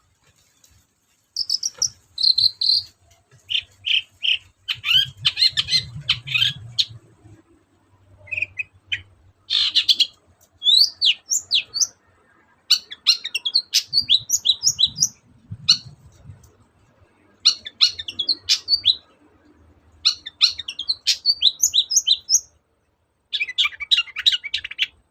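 Long-tailed shrike (cendet) singing hard: bursts of rapid, varied chirps, whistles and trills a few seconds long, broken by short pauses, in the mixed song of a shrike that weaves other birds' calls into its own.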